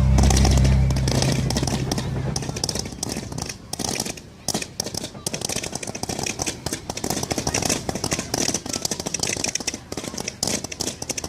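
Fireworks crackling and popping in rapid, dense volleys of sharp reports, with a deep low rumble in the first two seconds.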